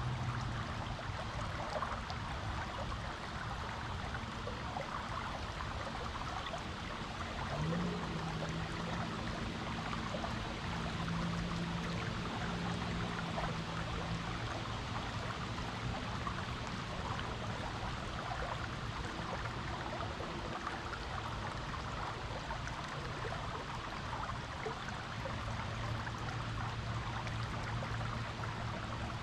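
A stream flowing steadily, a constant rush of running water. A faint low drone comes in about eight seconds in for several seconds and again near the end.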